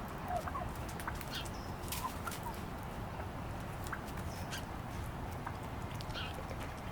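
Turkeys clucking: short, scattered notes with sharp clicks, over a steady low rumble.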